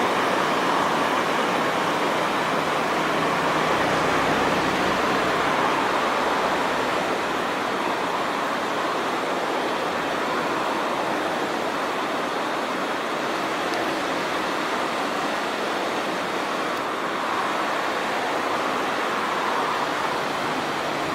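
River water rushing steadily, an even hiss-like noise of fast-flowing current.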